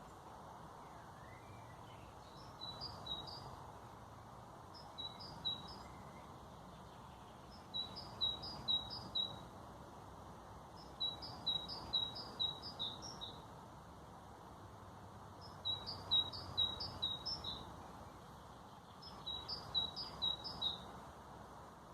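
A songbird repeating a short phrase of quick, high chirping notes every few seconds, over a steady background hiss.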